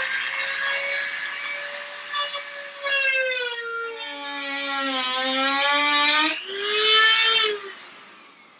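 Dremel rotary tool whining at high speed as it cuts through a plastic bumper. Its pitch sags and wavers in the middle as the cut loads it, climbs back, then winds down and fades near the end.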